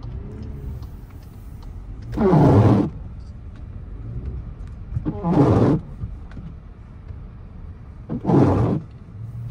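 2024 Volkswagen Atlas SUV's engine revving hard in three short bursts, about three seconds apart, as it is driven through unplowed snow. A low steady rumble runs between the bursts.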